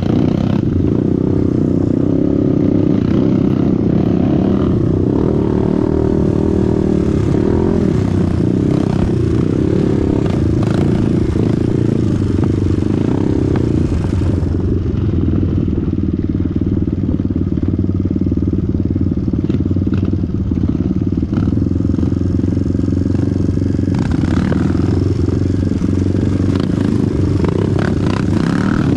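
Off-road dirt bike engine running loudly at fairly steady revs, with small changes in engine note about halfway through and again near the end.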